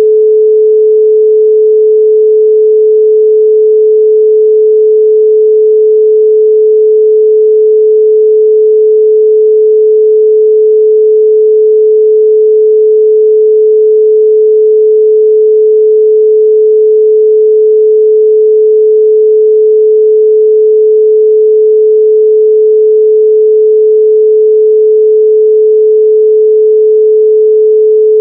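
A steady 432 Hz pure sine tone, one unchanging pitch held at a constant loud level.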